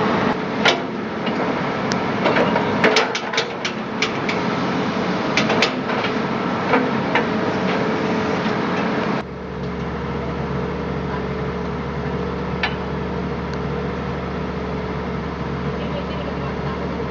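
Excavator engine running steadily, with sharp metallic clicks and knocks over the first half. About nine seconds in, the sound switches abruptly to a steadier, deeper hum.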